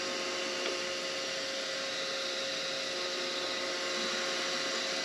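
Precision Matthews PM-25MV benchtop milling machine running steadily, a constant motor hum with a steady whine, while it chamfers an aluminium block.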